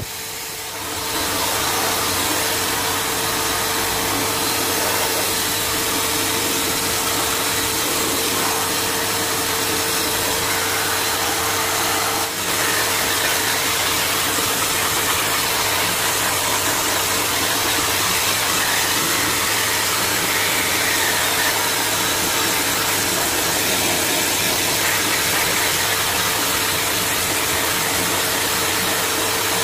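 Electric blow dryer running steadily, a loud rushing hiss with a steady motor whine, as the bathed dog's coat is dried. The sound dips briefly near the start and again about twelve seconds in.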